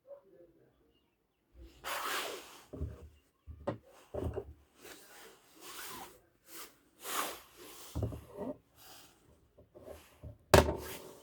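Irregular rubbing and scraping strokes on a surface, with a few knocks, the loudest a sharp knock near the end.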